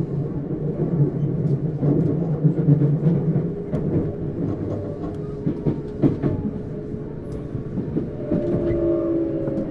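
Tokyu Series 9000 electric train running, heard inside a motor car: steady wheel-and-rail noise with scattered rail-joint clicks. About eight seconds in, the whine of the Hitachi GTO-VVVF traction inverter comes in, several tones sliding slowly down in pitch.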